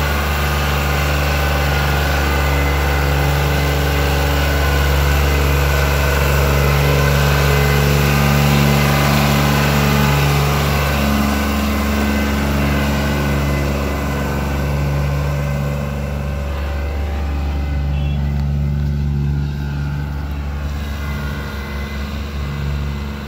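New Holland 3630 tractor's diesel engine running hard under load while pulling an overloaded dumper trailer. Its steady note eases and grows a little quieter in the last several seconds.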